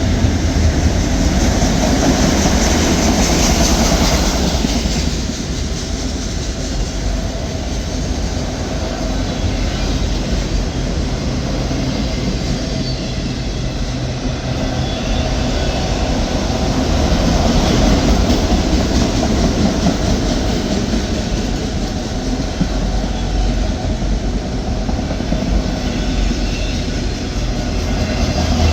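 Slow-moving Norfolk Southern autorack freight train rolling past, its cars and wheels running steadily over the rails. The sound swells a little a few times as the cars go by.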